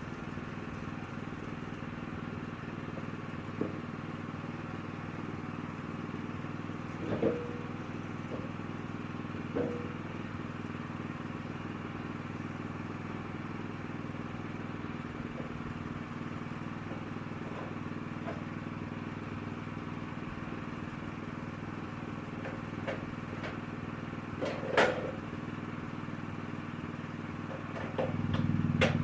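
Sawmill engine running steadily, with a few scattered knocks and clatters of wood or metal. It gets noticeably louder near the end, as if throttled up.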